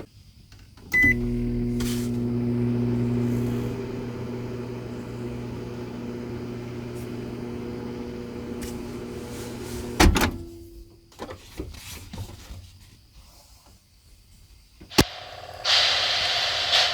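Microwave oven heating food: a short button beep about a second in, then the oven running with a steady electrical hum for about nine seconds, which stops with a sharp clunk about ten seconds in.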